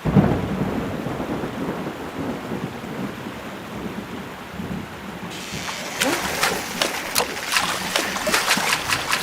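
Thunder rumbling loudly at the start, easing into steady rain; from about six seconds in, a quick, thickening patter of sharp drop hits.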